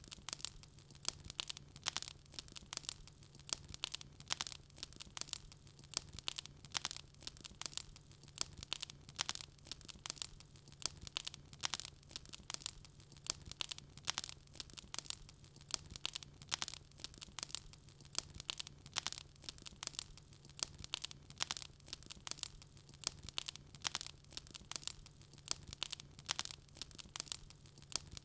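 Wood fire crackling: dense, irregular sharp pops and snaps, several a second, over a faint steady low hum.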